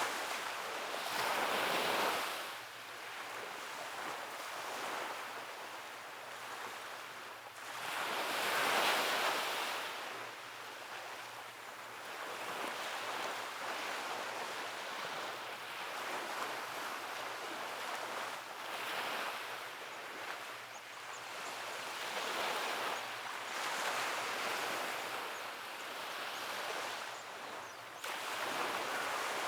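Ocean waves breaking and washing up a beach. The sound is a steady wash of surf that swells into louder breakers about a second in, again around nine seconds, and near the end.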